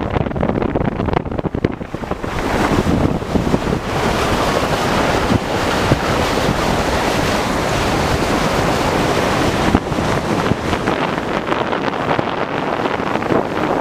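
Wind buffeting the microphone over the rush of sea water aboard a sailing yacht under way. The noise swells for most of the middle stretch, then eases near the end.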